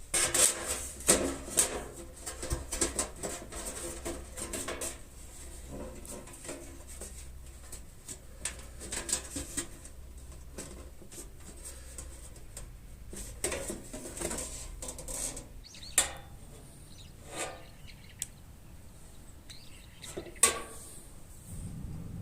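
Irregular light metallic clatter, knocks and scraping from a thin tin can being handled and worked. The clatter is busy for the first few seconds, then comes as scattered single knocks, with a sharp one near the end.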